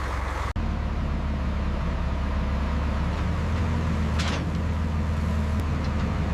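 King Tiger tank's Maybach V12 engine running steadily with a low, even rumble. A brief cut interrupts it about half a second in, and a short hiss comes about four seconds in.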